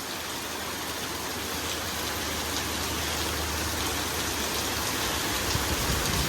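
Heavy squall-line rain hissing steadily, with a low rumble swelling through the second half and peaking near the end.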